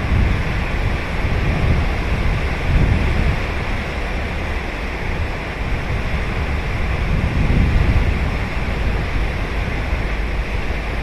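Ocean surf breaking and washing ashore in a steady wash of noise, swelling and easing every few seconds, with wind rumbling on the microphone.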